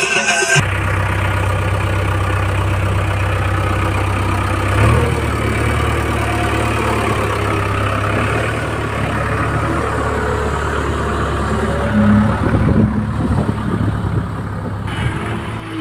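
Diesel engine of heavy earth-moving machinery running steadily. Its tone shifts about five seconds in, and it grows louder and uneven for a couple of seconds near the end.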